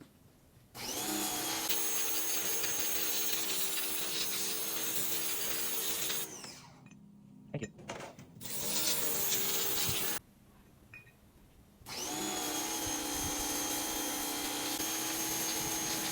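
A power tool runs in three bursts, each spinning up quickly to a steady whine, with short pauses and a few clicks between them.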